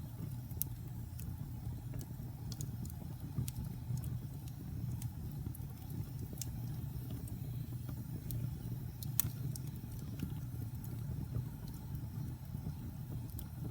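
Wood fire burning in a fireplace: a steady low rumble of flames with irregular sharp crackles and pops, the loudest about nine seconds in.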